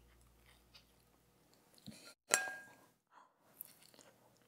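A person chewing a bite of sourdough pizza, with soft, quiet mouth sounds. One sharp clink against a ceramic plate comes a little over two seconds in.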